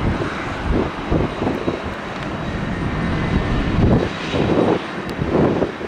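Embraer 175 regional jet's twin turbofan engines running at high thrust as it departs, a steady jet roar, with strong gusts buffeting the microphone in uneven low rumbles.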